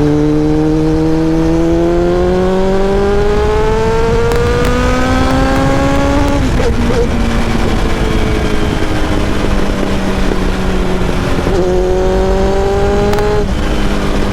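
Kawasaki ZX-7R's inline-four engine pulling hard: the engine note rises steadily for about six seconds, drops at an upshift, holds steady, then climbs again and drops at another shift near the end, over heavy wind rush.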